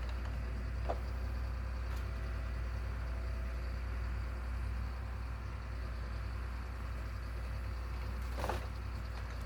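Steady low rumble of a running engine, with a few short knocks, one about a second in and another near the end.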